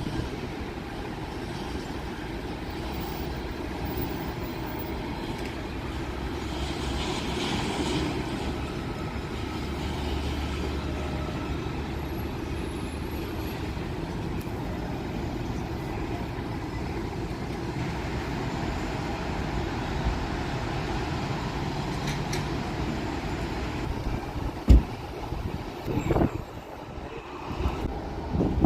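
Steady low rumble of distant engines, with a brief rise in hiss early on and a few sharp bumps near the end.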